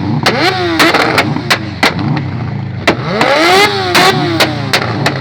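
Performance engine revved hard in repeated blips, its pitch climbing and falling, with one longer rev about three seconds in. Sharp cracks and pops from the exhaust fire between the revs: backfire on the overrun, the sound of the exhaust spitting flames.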